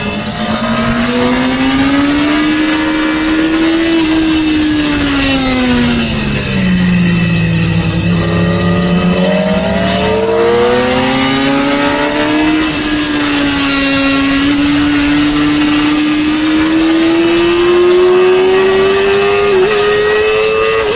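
Sport motorcycle engine heard from on board at speed on a race track. Its pitch rises over the first few seconds, drops low for a few seconds in the middle, then climbs again and keeps rising slowly through the rest as the bike accelerates.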